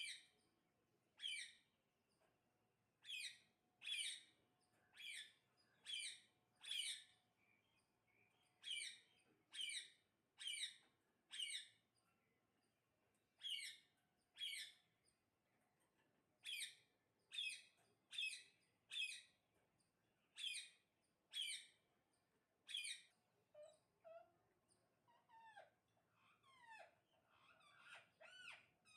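Parrot giving a long series of short, sharp calls, one or two a second in bunches with short pauses. Near the end, softer chirps and sliding whistles take over.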